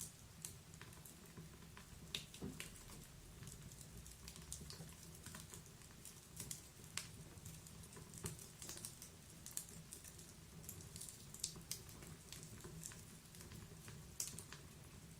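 Wood fire crackling: irregular sharp pops and snaps over a soft low rumble of the flames.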